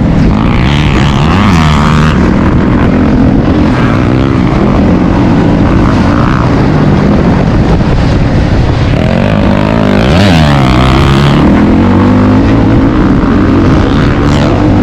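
Motocross dirt bike engine running hard, its pitch repeatedly rising and falling as the throttle is opened and rolled off and the bike goes through the gears. Loud and continuous.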